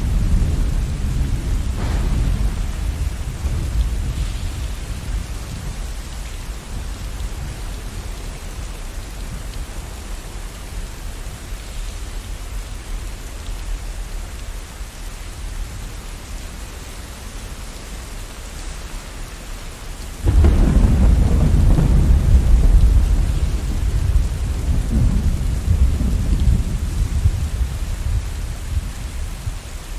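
Steady rain falling during a thunderstorm. A low thunder rumble dies away over the first few seconds. About two-thirds of the way in, a sudden loud peal of thunder breaks and rolls on for several seconds before fading.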